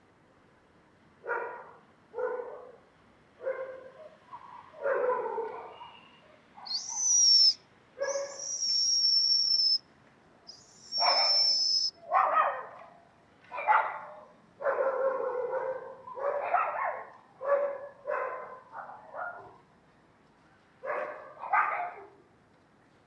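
An animal calling in a series of short, irregular bursts, with three long high whistling tones about a third of the way through.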